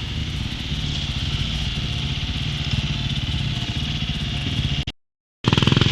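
Dirt bike engine running at low, steady revs. The sound cuts out for about half a second near the end, then returns louder.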